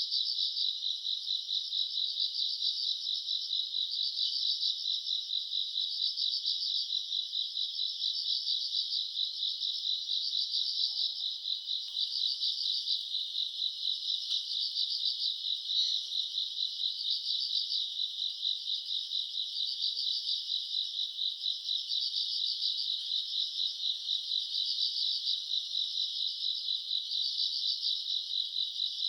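A chorus of grass insects such as crickets trilling steadily, a high, fast pulsing that swells and eases every second or two.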